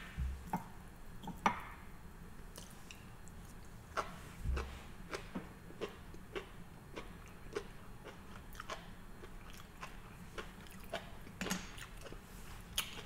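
A person chewing a mouthful of sushi: a run of soft, irregular mouth clicks and smacks.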